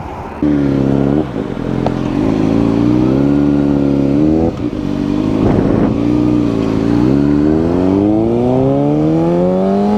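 Kawasaki Ninja sport bike engine accelerating hard through the gears, its pitch climbing and dropping at each upshift, about three shifts, then one long rise in pitch near the end.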